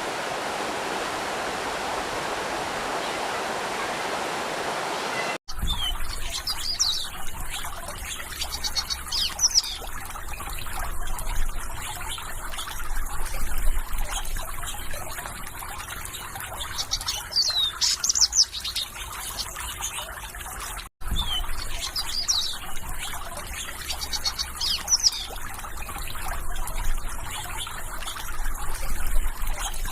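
Steady rushing water for about five seconds, then a sudden cut to trickling, splashing water with small birds chirping in short high phrases over it. The trickle-and-birdsong stretch cuts and starts over about 21 seconds in.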